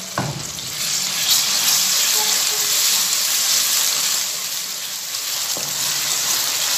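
Onions and freshly added ginger paste sizzling in hot oil in a kadhai, stirred with a wooden spoon. The sizzle grows louder about a second in and stays strong.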